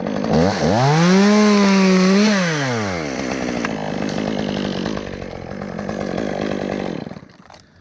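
Two-stroke chainsaw revving up, held at full throttle for over a second, then dropping back to a rough idle that cuts out near the end.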